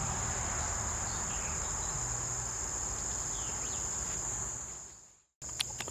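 Steady high-pitched insect chorus with a low background hiss. Both fade out to a brief silence about five seconds in, then return.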